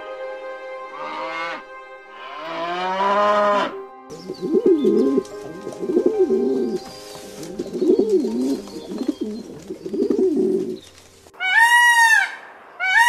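Calves mooing twice, then a domestic pigeon cooing over and over in low rolling coos for about seven seconds. Near the end an Indian peacock gives loud, high calls.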